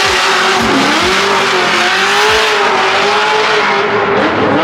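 Formula Drift car drifting past at high revs: the engine is held near one wavering pitch over a loud, steady noise of tyres skidding.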